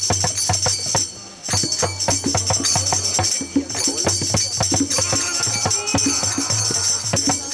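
Music with a fast, steady percussion beat: jingling hand percussion over a low drum, with a brief gap about a second in.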